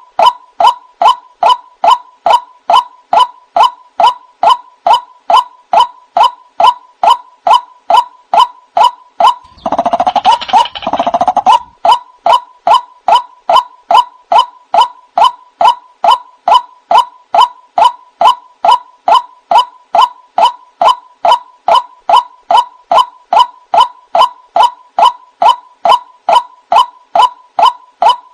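White-breasted waterhen (ruak-ruak) lure call: a short, bent, nasal note repeated very evenly, about two to three times a second. About ten seconds in there is a rougher, denser burst of calling that lasts about two seconds before the even repetition resumes.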